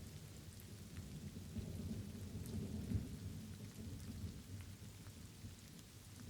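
Light rain with scattered drops ticking, over a low rolling thunder rumble that swells about halfway through and then eases.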